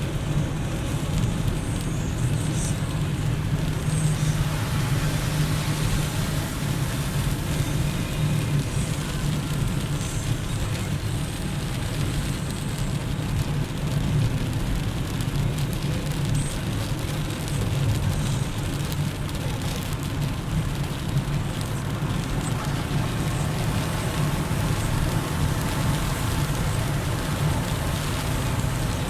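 Steady road noise inside a moving car: a low drone of engine and tyres with a hiss of tyres on a wet road.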